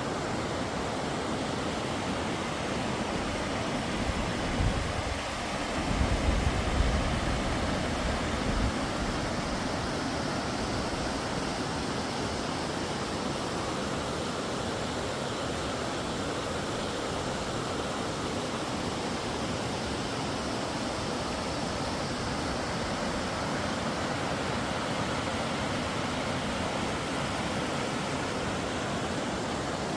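Steady outdoor rushing noise, even across high and low pitches, with a few louder low rumbling buffets between about four and nine seconds in.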